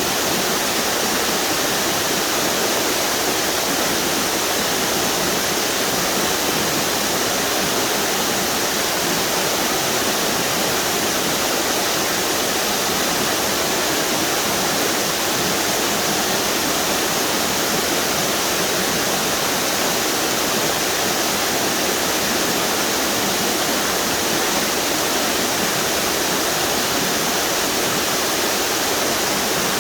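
Duck River cascading over a string of small waterfalls: a steady, even rushing of falling water.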